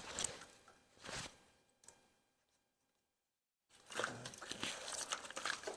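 Irregular rustling and clattering of hands working parts and tools, a few short bursts and then a denser run of clatter after a brief dead gap.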